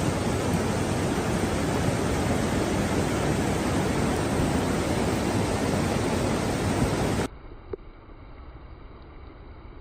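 Loud steady rush of water, typical of floodwater pouring past, cutting off abruptly about seven seconds in to a much quieter faint hiss.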